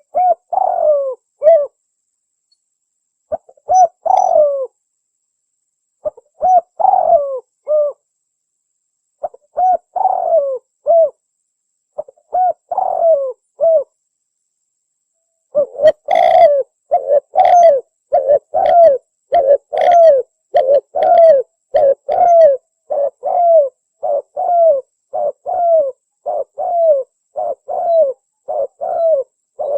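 Spotted doves cooing. Short cooing phrases come every few seconds with silent gaps between them, then from about halfway the coos run on quickly without a break.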